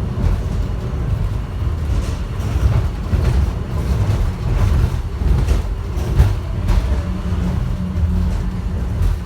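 Airport people-mover train running at speed, heard from inside the car: a steady low rumble with scattered rattles and clicks, and a steady low hum that comes in about seven seconds in.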